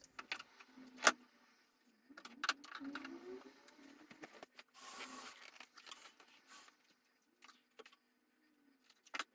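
Faint handling noises from cleaning: scattered clicks and knocks, light rustling, and a brief hiss about five seconds in.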